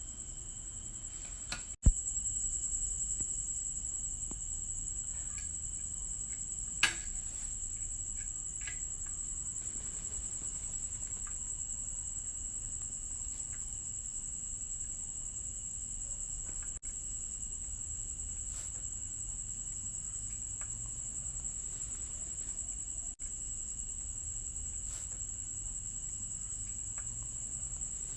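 Crickets trilling steadily in a high pitch, over a low background hum, with a few small clicks, two of them a little louder about 2 and 7 seconds in.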